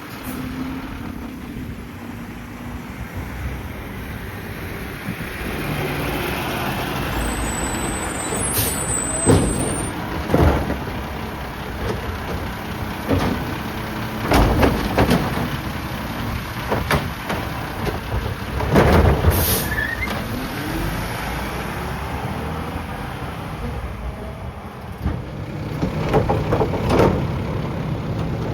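Mack LR side-loader garbage truck idling and working, with the diesel engine running under hydraulic whine and repeated loud metal clanks and bangs from the New Way Sidewinder loading arm and body, plus a short air-brake hiss about two-thirds through.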